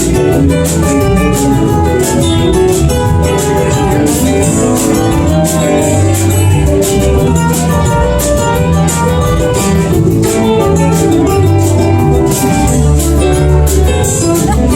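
Live band playing an instrumental break: guitar soloing over bass and drums with a steady beat.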